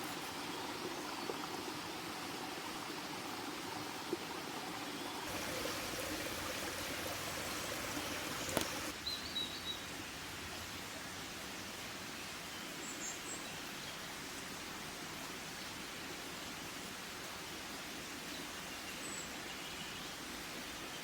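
Steady outdoor background noise with a few short, high bird chirps scattered through it, and one sharp click about eight and a half seconds in.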